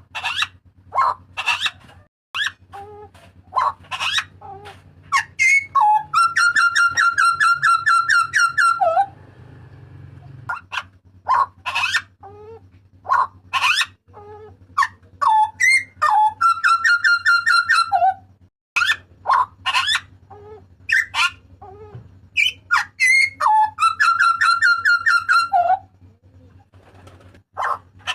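Hooded butcherbird calling loudly in a run of short, sharp whistled and yelping notes. The run is broken three times by a fast rattling chatter lasting about two seconds each time.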